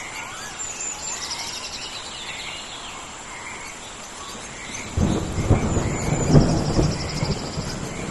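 Rainforest rainstorm ambience: steady rain with chirping calls and a fast high trill, then a roll of thunder breaks in suddenly about five seconds in, loudest about a second later and easing off near the end.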